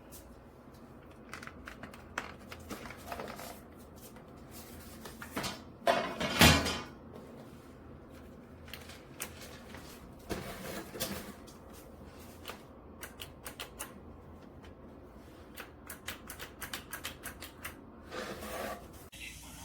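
Scattered light clicks and taps from handling, with one louder knock about six seconds in.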